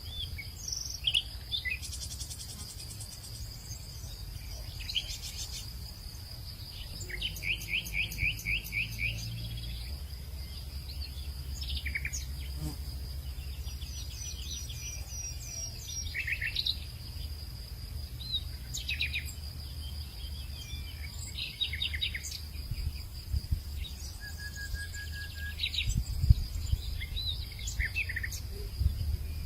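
Several birds calling and singing with short chirps and trills, over a steady high insect drone and a low rumble like wind.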